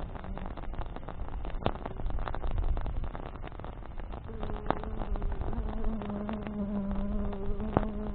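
Campfire burning with a steady rush and frequent sharp crackles and pops from the burning branches. About halfway through, a flying insect starts buzzing close to the microphone with a steady hum that dips slightly in pitch partway along.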